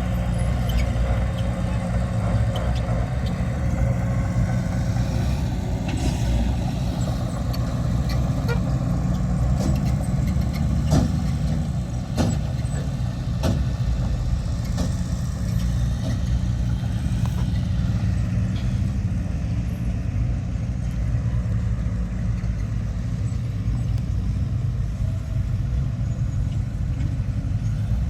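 Heavy diesel engine of earthmoving machinery running steadily, with a few sharp knocks about halfway through.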